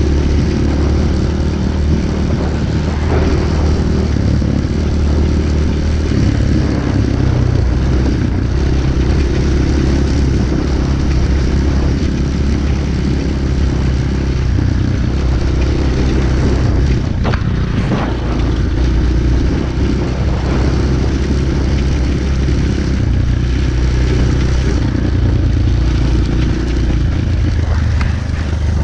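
Pit bike engine running steadily while the motorcycle is ridden, with a couple of brief knocks about two-thirds of the way through.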